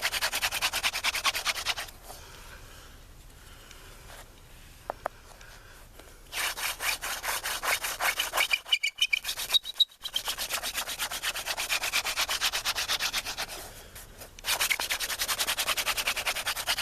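Hand-drill friction fire: a horseweed spindle spun back and forth between the palms, grinding into a willow hearth board in fast, even rubbing strokes while the socket is burned in. It stops about 2 s in for roughly four seconds, starts again unevenly with a brief squeak, and picks up a steady pace again near the end.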